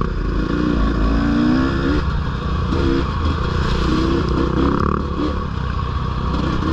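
Dirt bike engine being ridden off-road, its revs rising and falling again and again as the throttle is worked, with some clatter from the bike.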